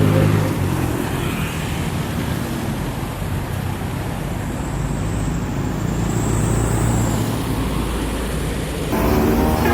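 Road traffic of trucks and buses passing: a heavy engine drone fades in the first half-second, then a steady rumble of passing vehicles. Near the end a louder vehicle comes in with a pitched tone.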